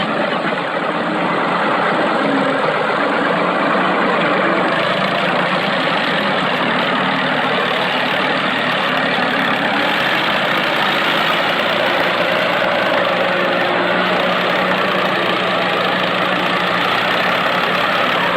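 Mini tractor engine running steadily.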